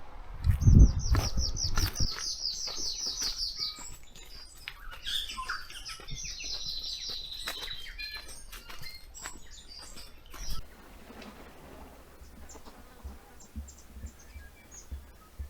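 Songbirds singing: a fast run of about twenty high, falling notes, then varied calls and a rapid trill. The song stops about ten seconds in, leaving only faint ticks. A low rumble near the start is the loudest sound.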